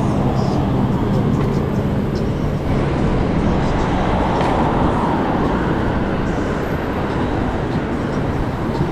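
Wind rushing over the microphone of a bicycle-mounted camera, with road and traffic noise, while cycling; a low hum sits under it for the first two seconds or so.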